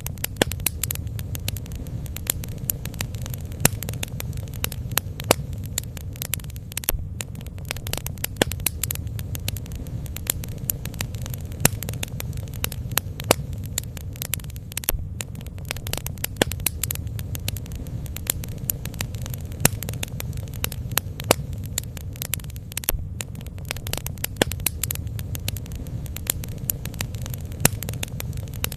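Bonfire burning: wood crackling with frequent sharp pops over a steady low rumble.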